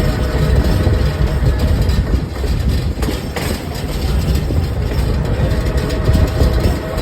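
Passenger train running along the track: a steady low rumble of wheels on the rails, with a brief sharper noise about three and a half seconds in.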